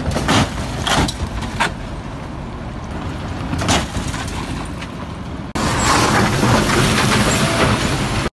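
Road traffic: vehicle engines and tyre noise, with several short sharp sounds in the first four seconds. About halfway through it turns abruptly louder and busier, then cuts off just before the end.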